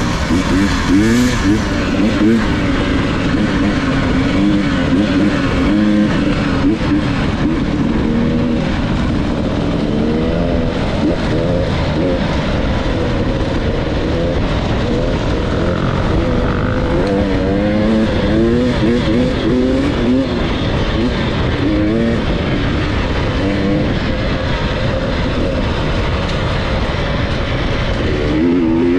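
Enduro dirt bike engine running hard while being ridden, its pitch rising and falling over and over as the throttle is opened and closed.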